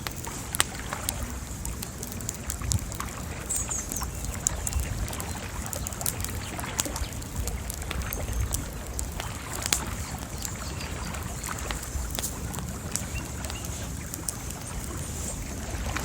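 Bonfire crackling, with irregular sharp pops and snaps over a low steady rumble and a faint high hiss.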